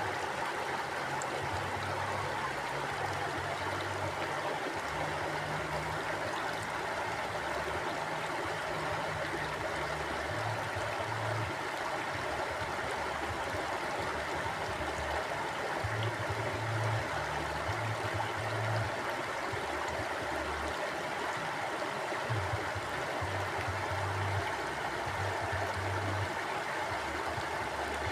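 Stream of water flowing steadily over rocks, a continuous rushing and gurgling with an uneven low rumble underneath.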